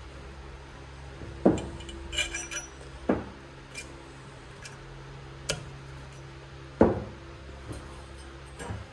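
Metal tools and parts knocking and clinking during motorcycle fork work: several separate knocks a second or two apart, with a short run of ringing metallic clinks about two seconds in, over a steady low hum.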